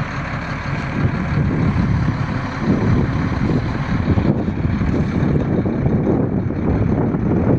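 Crane engine running low and steady, with wind buffeting the microphone.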